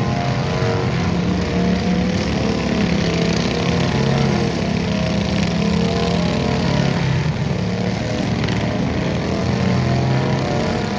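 Small garden tractor engine running steadily at high speed, a continuous droning hum with little change in pitch.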